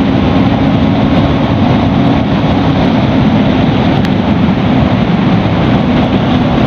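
Bajaj Pulsar NS200's single-cylinder engine running steadily under way, mixed with wind rush and road noise.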